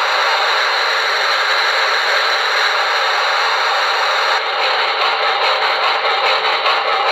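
Steam locomotive sound effects from a QSI Maxx Traxx model-train sound unit, played through its speaker: a steady hiss that, a little over four seconds in, turns duller and takes on a fast pulsing rhythm.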